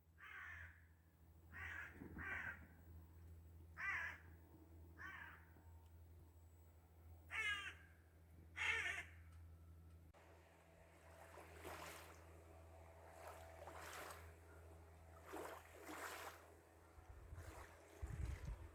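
Crow cawing: about seven separate calls in the first nine seconds, then fainter calls spaced a second or two apart, over a faint steady low hum.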